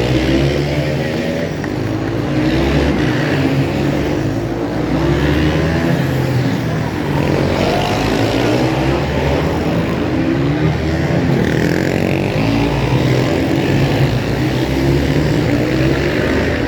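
Several supermotard racing motorcycles revving hard as they race, their engine notes climbing and dropping over and over as they accelerate and shift.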